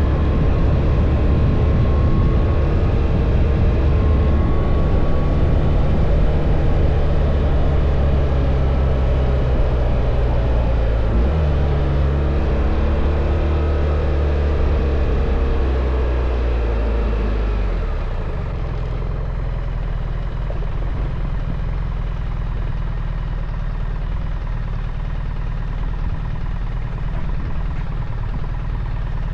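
BMW R1300 GS boxer-twin engine running while the motorcycle is ridden, with a steady rush of wind. About a third of the way in, the engine note steps to a different pitch. A little past halfway, the sound turns quieter and duller, with less wind.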